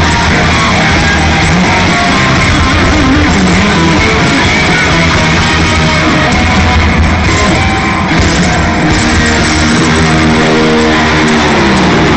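Live hard-rock band playing loud, with distorted electric guitars and drums, as heard in an arena concert. Near the end, a pitched line slides up and down.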